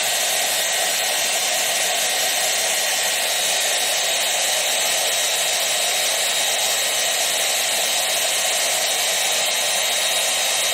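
A small motor-driven blower running steadily: an even rushing noise with a faint high whine that does not change.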